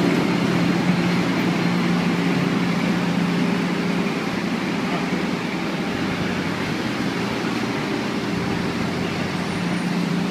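Motorcycle engine running at a steady low speed, a constant even hum under a broad hiss of street and road noise, easing slightly about four seconds in.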